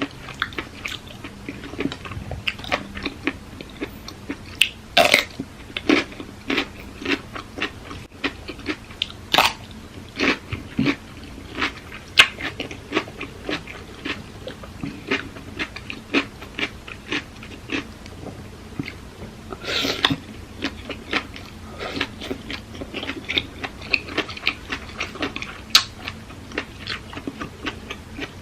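A person eating papaya salad with octopus: crunchy chewing, with many irregular short clicks and crunches.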